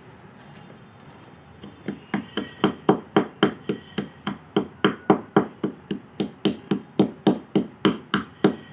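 Kolkata clay pot being broken by repeated strikes: after a quiet start, a steady run of sharp knocks begins about two seconds in, about three a second.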